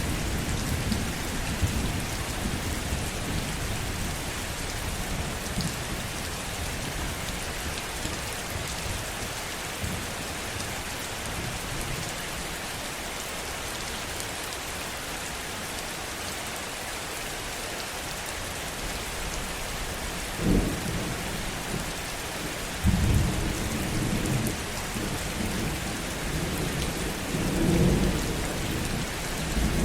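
Steady heavy rain with thunder: a low rumble dying away at the start, a sharp crack about two-thirds of the way in, then rolling rumbles that grow louder near the end.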